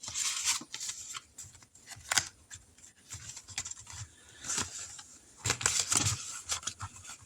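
Paper money and savings envelopes being handled: irregular short rustles and scrapes of paper, with a few sharper strokes.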